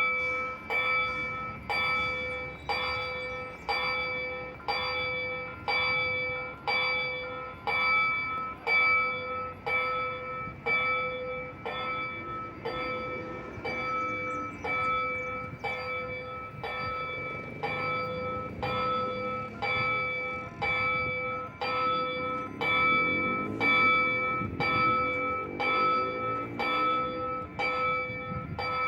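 Railroad level-crossing warning bell striking steadily about once a second, each stroke ringing on. A low rumble swells and sweeps in the second half.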